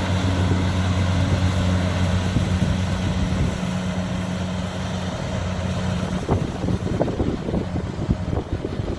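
A harvesting machine's engine running steadily with a low hum that weakens after about six seconds. Irregular crackles and knocks follow in the later part.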